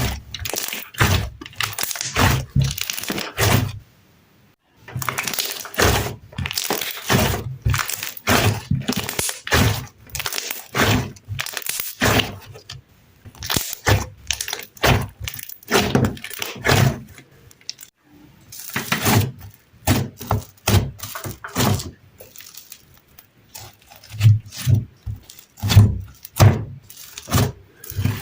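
Crunchy slime being pressed and squished, giving a fast run of crackling, popping crunches in clusters with short pauses.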